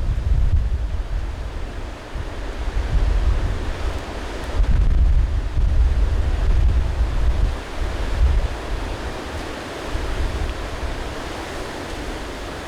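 Strong gusty wind buffeting the microphone, with a deep rumble in each gust over a steady rushing hiss; the gusts ease in the last few seconds.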